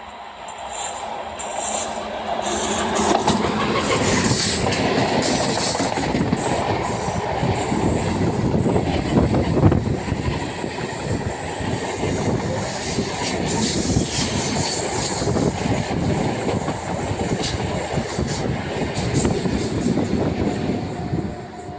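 An Indian Railways train passing close by, its wheels clattering over the rail joints. It builds up over the first two seconds, stays loud throughout, and falls away just at the end.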